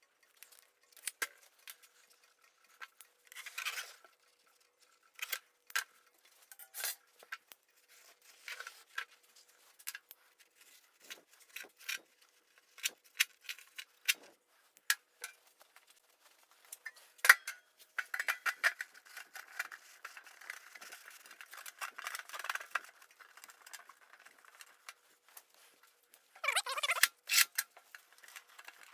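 Hand work on ceramic fibre (K-wool) insulation blanket while relining a forge: scattered light clicks and taps, with a few bouts of rustling and scraping, the longest a few seconds after the middle.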